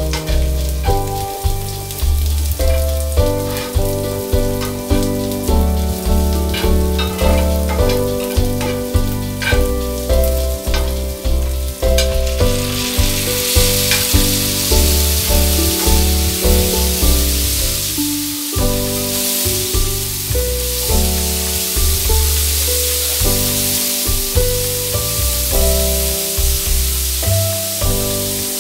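Chopped onion and garlic sizzling in oil on a tawa while a metal spatula stirs and scrapes, with background music and a steady beat throughout. About halfway through the hiss grows louder and brighter as chopped tomato goes into the hot pan.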